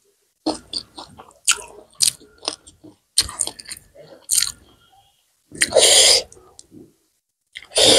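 Close-miked mouth sounds of chewing rice and buffalo curry: a run of short wet smacks and clicks, then two loud noisy bursts, each under a second long and about two seconds apart.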